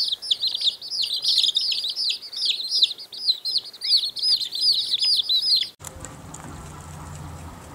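Many birds chirping at once in a dense chorus of quick, high chirps that cuts off suddenly about six seconds in, followed by a low steady rumble.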